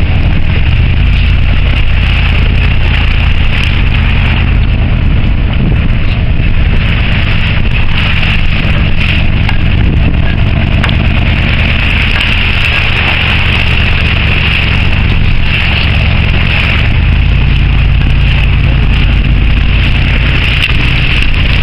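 A vehicle driving: a steady low engine and road drone with a hiss, the low drone growing stronger about 17 seconds in.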